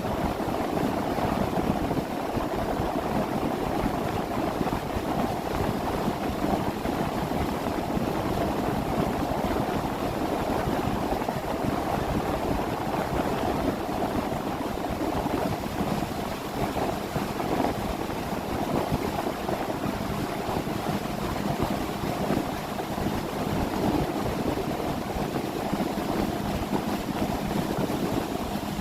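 A 30 ft boat under way: its engine running at a steady pitch under a continuous rush of water along the hull.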